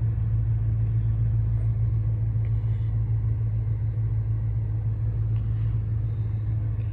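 2016 Dodge Challenger R/T's V8 engine idling steadily, a low even hum.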